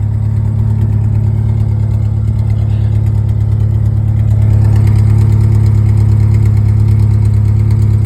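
Ford Ranger pickup's engine idling steadily through its newly fitted exhaust tip, a low even hum that gets a little louder about halfway through.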